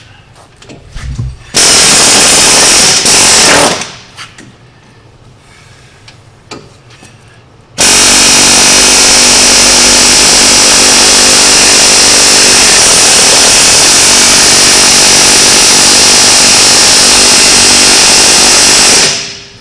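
Pneumatic air tool hammering hard in two runs, one of about two seconds and one of about eleven seconds, working on a seized wheel hub assembly that is not budging.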